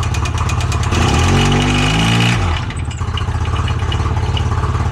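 Polaris RZR engine running rough with a rapid, even knock. About a second in it revs briefly, then drops back to idle. The owner takes the knock for rod bearings seizing to the crankshaft after a loss of oil pressure.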